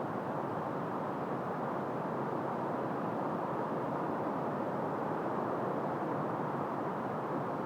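Wind blowing steadily through trees: an even rushing noise without distinct gusts or separate rustles.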